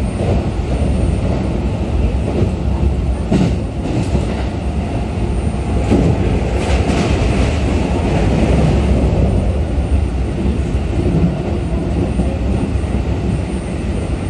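Running noise inside a Keikyu New 1000 series commuter train car at speed: a steady low rumble of wheels on rail, with a few sharper clacks about three to six seconds in.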